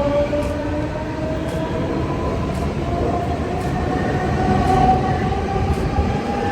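Train running, with a motor whine that rises slowly in pitch near the start and then holds steady over a constant rumble.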